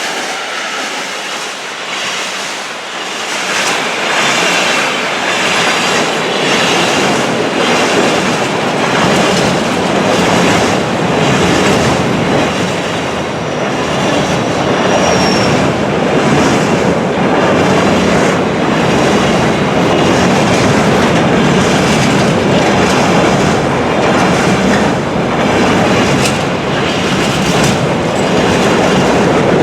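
A train passing close by, growing louder over the first few seconds and then holding steady, its wheels clattering in a regular rhythm over the rail joints. A brief high wheel squeal comes about halfway through.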